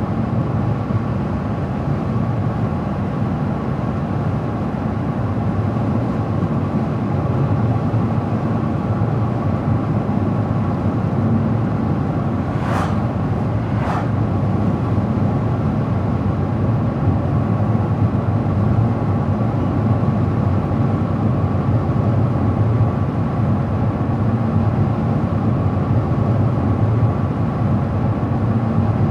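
A car driving steadily on the road: a constant low hum of tyres and engine. Two brief sharp swishes come about a second apart near the middle.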